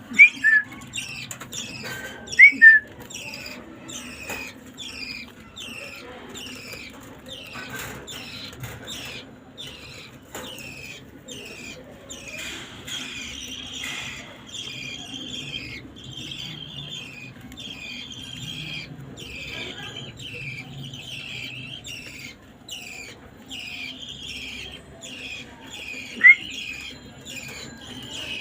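A pet bird chirping steadily, a run of short high chirps over and over, with a few loud, sharp calls near the start and one near the end.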